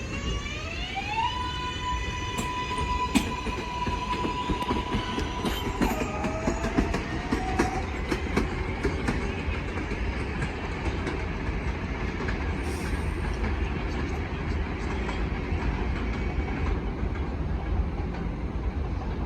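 New York City subway train pulling away: its traction motors whine, rising in pitch over about the first second, holding steady, then dropping and climbing again about six seconds in. The whine then fades into a steady rumble of wheels with many sharp clicks over the rail joints.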